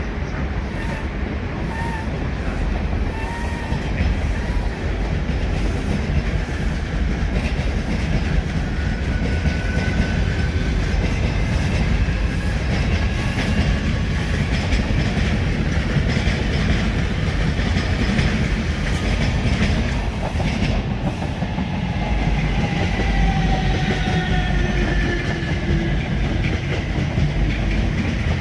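A multiple-unit passenger train running through at speed, its wheels clattering over the rail joints, with faint whines sliding in pitch during the passage.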